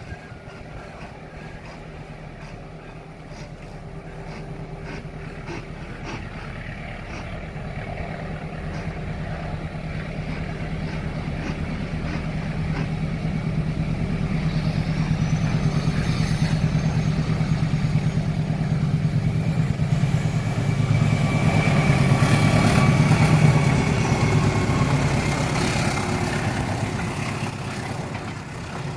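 Diesel locomotive approaching along the railway, its engine hum swelling steadily until it is loudest a little over twenty seconds in, then easing as it passes.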